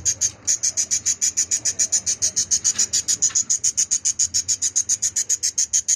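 Budgerigar hen screaming from inside her nest pot: a fast, steady run of harsh high calls, about nine a second, with a brief break just after the start. It is her defensive protest at being disturbed on her eggs, which she will not leave.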